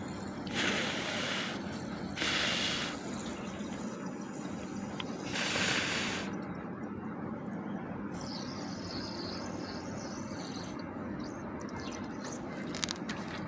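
Three short bursts of hissing, each under a second long, the first about a second in and the last about six seconds in, over a steady low background noise.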